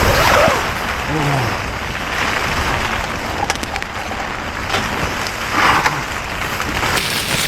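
Strong gusting wind blowing into and against a camping tent through its open window, swelling and easing in gusts.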